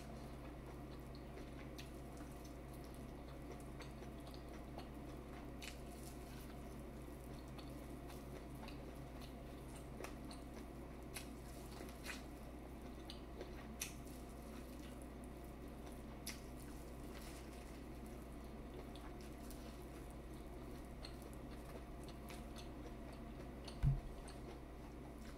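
A person eating seafood boil: soft chewing and mouth sounds with scattered small clicks and smacks over a steady low hum. One dull thump near the end.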